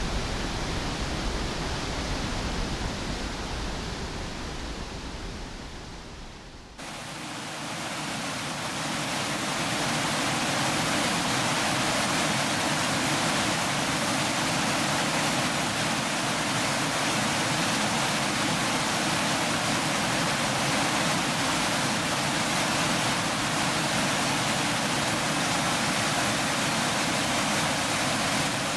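Waterfall's steady rush of falling water. It fades down over the first several seconds, then cuts abruptly to a louder, even rush that holds.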